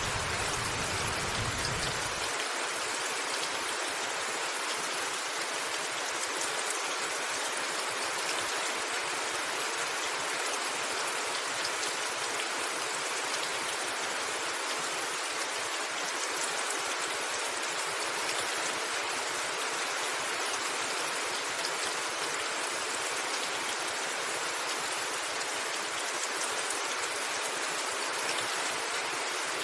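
Steady rain falling on a roof, a dense even hiss with fine scattered drop ticks. A low rumble underneath cuts off about two seconds in.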